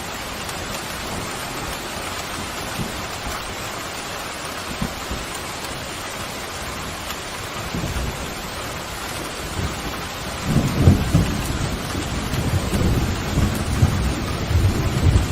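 Steady heavy rain hissing, with a low rumble of thunder building about halfway through and growing loud and crackling in the last few seconds.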